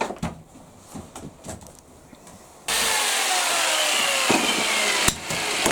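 A few light handling clicks and knocks, then about two and a half seconds in a power saw starts cutting a timber batten: a loud, steady rasping whine whose tones slowly drop in pitch as the blade works through the wood, with a brief break near the end.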